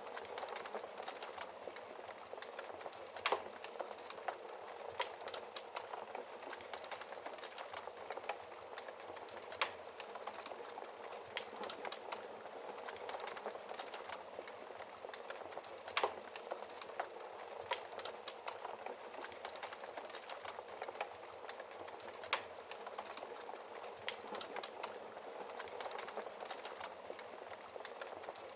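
Wood fire crackling in a fireplace: a steady hiss of burning with many small crackles and a few louder sharp pops spread through.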